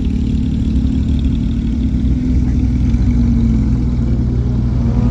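A car engine running steadily at low speed close by, with a deep, even rumble.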